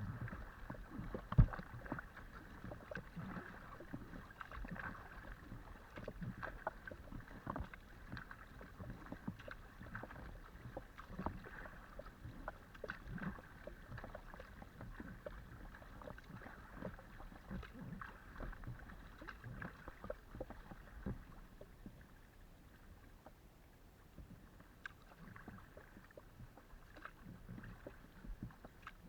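Kayak paddle strokes: the blades dip and splash in the water with small drips and clicks against the hull of a Decathlon Itiwit X500 kayak. There is a sharp knock about a second and a half in, and the splashing grows quieter in the last quarter.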